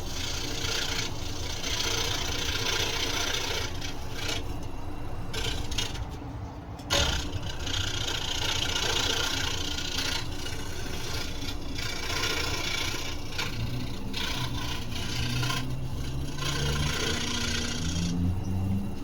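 Scroll saw blade cutting through thin wood, a steady rasping over the hum of the saw's motor, with short breaks every few seconds where the cut pauses.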